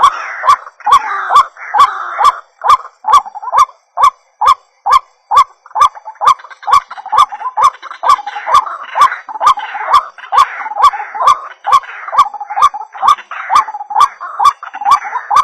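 White-breasted waterhen calling over and over in a rapid run, about two to three calls a second, each call starting with a sharp click.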